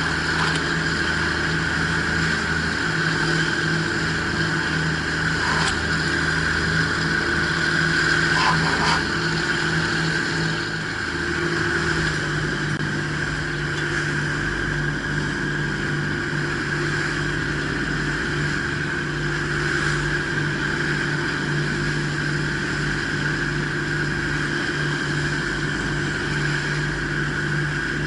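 A fishing ferry boat's engine running steadily under way, with a few faint knocks and a slight change in the engine note about eleven seconds in.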